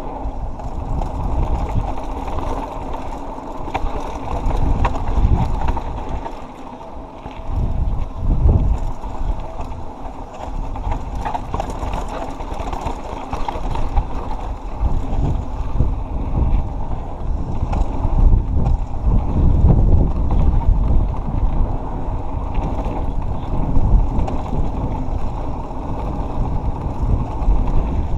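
Mountain bike descending a dirt trail: wind buffeting the camera microphone over tyre noise and the rattle of the bike, with scattered ticks and knocks from the trail. It eases briefly twice, about six and ten seconds in, then builds again.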